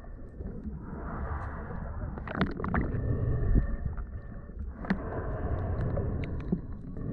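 Muffled water sloshing and gurgling with scattered small clicks, as picked up by a camera in or just under the water during a drift snorkel.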